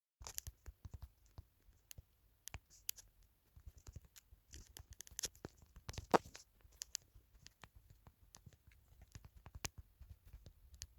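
Faint handling noises: irregular small clicks and scratches, the loudest about six seconds in.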